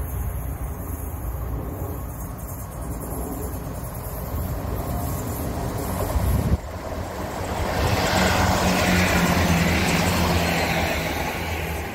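A GWR Class 165 diesel multiple unit approaching and passing close by on the main line, its diesel engine giving a steady low hum under the rising rush of wheels on rail. The train noise builds from about halfway in and is loudest a couple of seconds before the end, over a low rumble that fills the first half.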